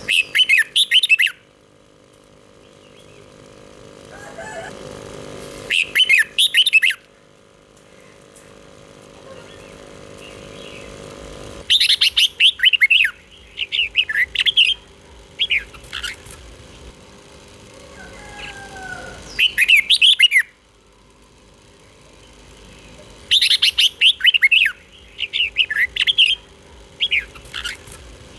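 Red-whiskered bulbul singing short, quick warbled phrases, one burst every few seconds, over a faint steady hum.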